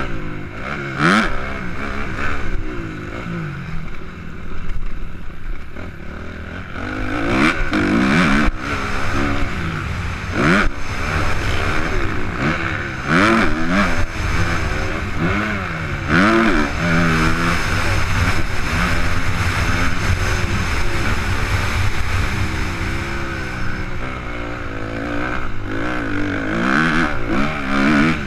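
Suzuki RM-Z 250 motocross bike's four-stroke single-cylinder engine, heard on board, revving up and dropping back again and again as the throttle opens and closes around the track. A few sharp knocks break in along the way.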